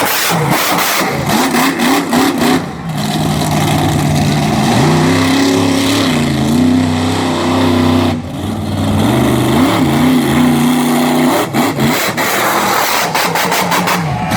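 Monster truck engine revving hard, its pitch rising and falling again and again, with sharp drops in throttle about three and eight seconds in. Quick crackling from the engine near the start and again near the end.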